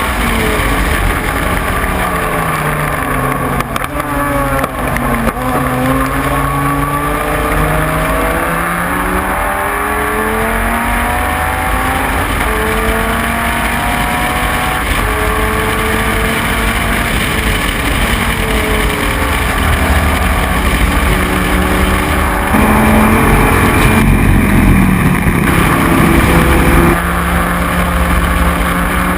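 Dodge Viper GT3's V10 engine at racing speed, the revs sweeping down and climbing back up again and again through gear changes. A harsher, louder stretch comes in the last few seconds.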